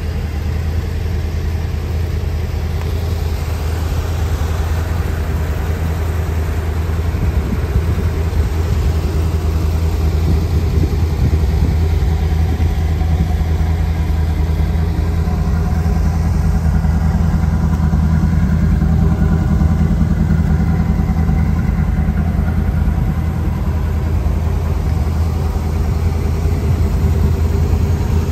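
1982 Corvette's 350 cubic-inch Cross-Fire Injection V8 idling steadily, with a low, even note that grows a little louder over the first several seconds.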